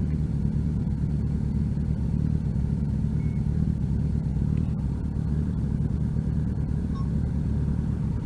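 Motorcycle engine running at steady revs while riding, heard as a steady low drone.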